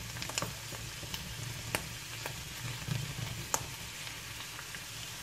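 Sliced mushrooms and onion sautéing in oil in a frying pan over medium heat, a steady gentle sizzle. A wooden spoon stirs through them, with a few sharp clicks against the pan.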